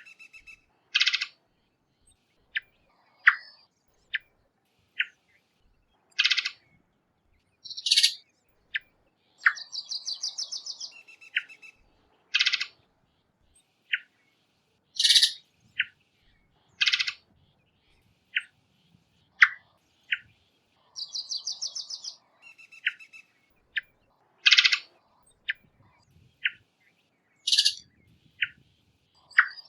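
Varied thrush calling: a string of short, sharp chip notes and louder harsh calls. Two longer buzzy, trilled whistles come partway through, a high one and later a lower one.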